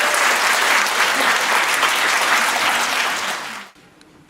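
Audience applauding. The clapping fades out about three and a half seconds in.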